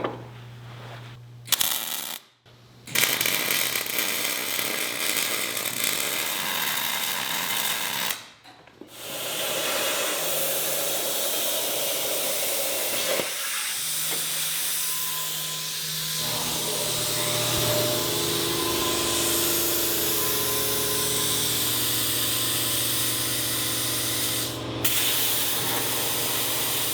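Metal-fabrication tool noise on steel tubing: several long stretches of steady hissing, crackling work over a low hum, with brief pauses about 2, 8 and 13 seconds in.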